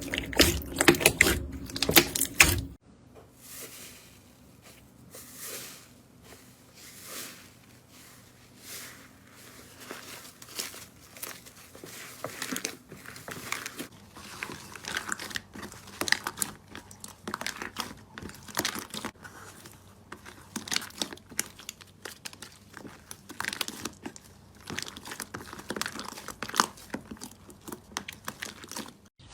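Slime being squeezed and worked by hand, making dense crackling and popping, like crinkling plastic. A loud, busy stretch cuts off abruptly about three seconds in, and softer, irregular crackles and pops follow.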